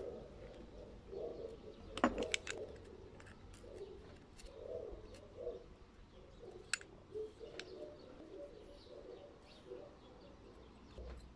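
Low, repeated bird calls in the background, with a few sharp clicks from metal engine parts being handled, the loudest about two seconds in.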